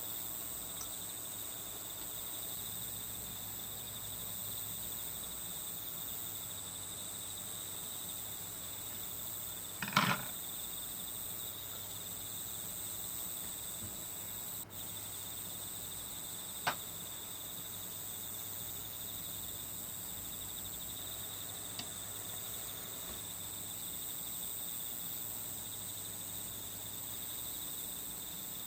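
Steady chorus of crickets chirping, with a few short sharp clicks or taps, the loudest about ten seconds in.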